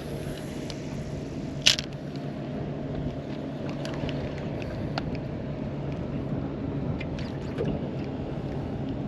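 Steady low hum of an electric trolling motor holding the boat in position, over a light wash of water and wind. Scattered small clicks and one brief swish come about two seconds in.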